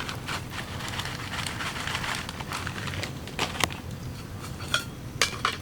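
Steady rain pattering, with a scatter of sharp clicks and light clinks; the loudest come in pairs about three and a half seconds in and again near the end.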